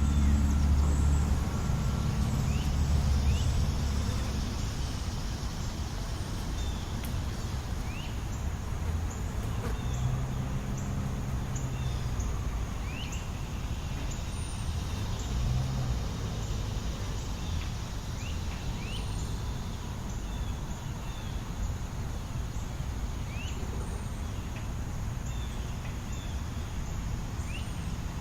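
Road traffic rumble: a passing vehicle, loudest at the start and fading over the first few seconds, over steady distant traffic. Short, high bird chirps come scattered throughout.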